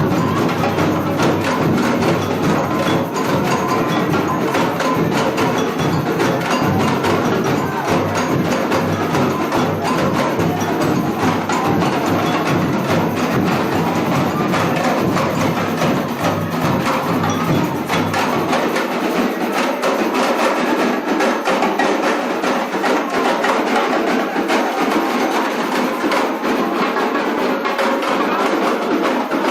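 Samba bateria, a drum and percussion ensemble, playing a dense, steady batucada rhythm. About two-thirds of the way through, the deep bass drums drop out while the higher drums and percussion keep playing.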